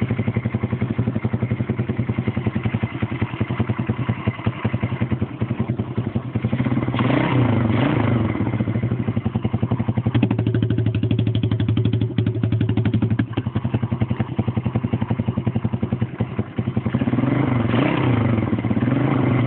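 110cc pit bike engine running with its racing exhaust can off, so the exhaust is open and unsilenced. It idles steadily and is given quick throttle blips about seven seconds in and again near the end.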